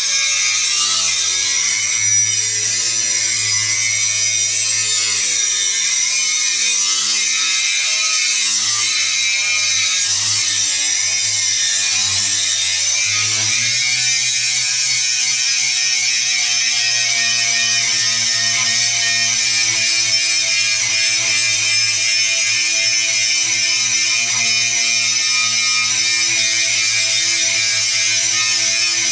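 Angle grinder grinding steel: a loud, continuous hiss with a motor whine underneath that wavers in pitch as the disc is pressed against the metal. About halfway through, the whine shifts and then holds steadier.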